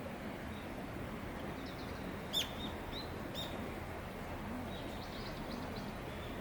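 A small bird chirping a few short, high notes over steady outdoor background noise, the loudest chirps about two and a half and three and a half seconds in.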